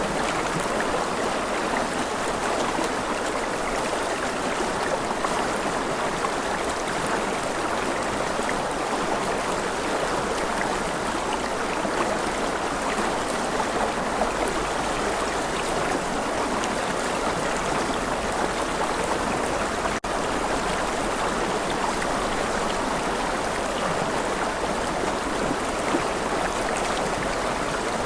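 Stream of running water flowing steadily, an even rushing and trickling with no breaks, except for a brief dip about twenty seconds in.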